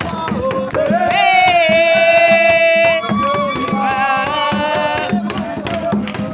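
Singing in long held notes over a steady drum beat, the pitch stepping up about halfway through.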